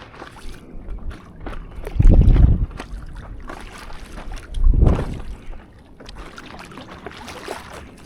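Paddling a stand-up paddleboard at sea: water sloshing and splashing around the board and paddle, with two loud low buffets of wind on the microphone about two and five seconds in.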